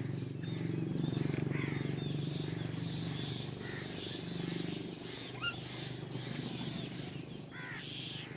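Small birds chirping and calling at a feeder, many short overlapping chirps, over a low steady rumble that eases after a couple of seconds.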